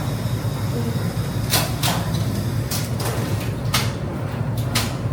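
Ramen noodles being slurped: a series of short, hissy slurps, about seven in quick succession, over a steady low hum.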